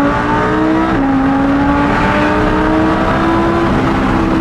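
Lamborghini Huracan's V10 engine accelerating at full throttle, its pitch climbing, dropping sharply at an upshift about a second in, then climbing again.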